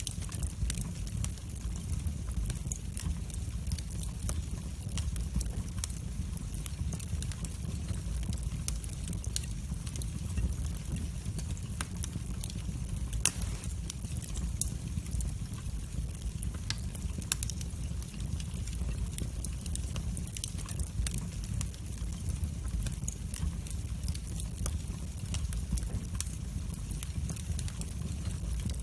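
Wood fire burning in a fireplace: a steady low rumble of flames with frequent small, sharp crackles and pops, one of them louder about halfway through.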